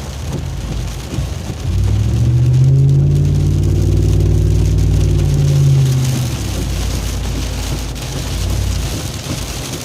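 An engine-like low hum that rises and then falls in pitch over about four seconds, over a steady rushing noise like wind and rain.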